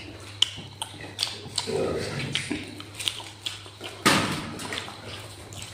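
Close-up wet mouth sounds of someone eating duck curry and rice by hand: chewing with repeated sharp lip smacks and clicks. A brief louder rush of noise about four seconds in.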